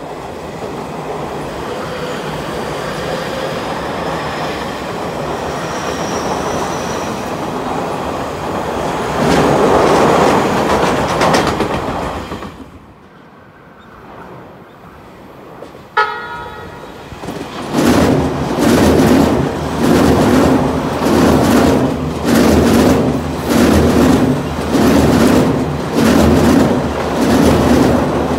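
Tobu 50000-series electric trains. For the first twelve seconds one runs past close by with a rumble and a faint rising whine, then fades. About sixteen seconds in a brief horn toot sounds, and a second train passes close at speed with a rhythmic clatter of wheels over rail joints, about once a second.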